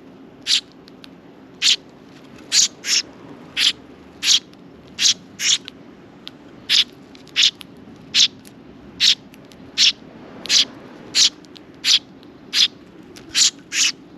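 Sparrow chirping repeatedly, about twenty short, sharp, high chirps at an uneven one or two a second, some in quick pairs, over a faint steady low hum.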